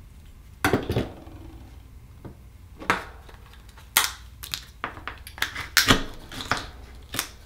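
Irregular clicks, taps and short scrapes of akoya oyster shells and small metal tools being handled on a tabletop as an oyster is opened, about ten separate sounds, with a few close together near the middle.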